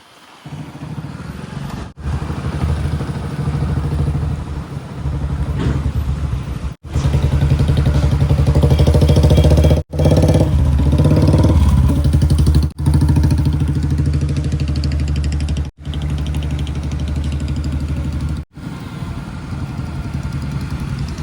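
Heavy diesel engines of earth-moving machinery and tractors running under load, in a string of short clips that cut off abruptly every few seconds; around ten seconds in the engine note rises and falls as it revs.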